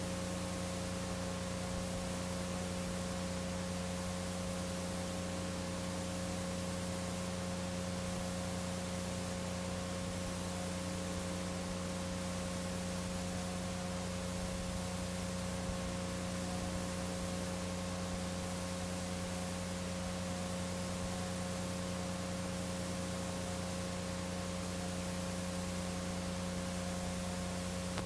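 Steady hiss with a low electrical hum and a few faint steady tones, unchanging throughout; near the end a sharp click, after which the hiss drops away.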